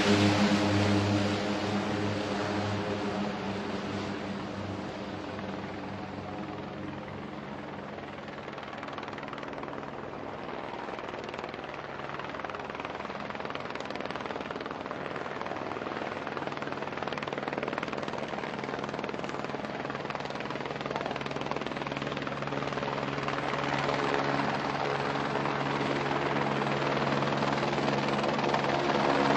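Helicopter engine and rotor running. The sound fades away over the first several seconds, then slowly grows louder again as a helicopter approaches.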